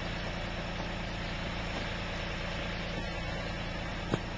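An engine idling steadily, with one sharp click about four seconds in.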